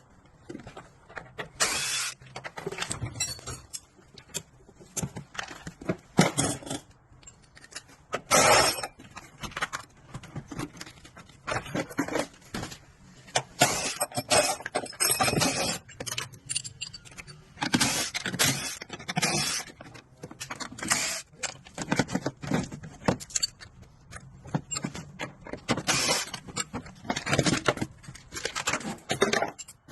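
Irregular metallic clinks, scrapes and rattles, the sound of hand tools and metal parts being handled, in short bursts with brief pauses between.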